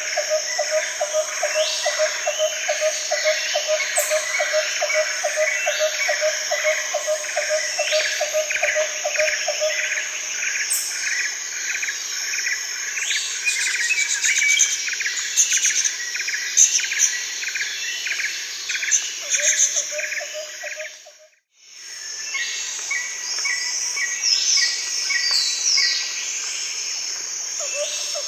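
A rainforest soundscape of many bird calls and chirps over insect trilling. For the first ten seconds a low pulsing croak-like call repeats about three times a second. The whole soundscape cuts out for a moment about two-thirds of the way through, then resumes.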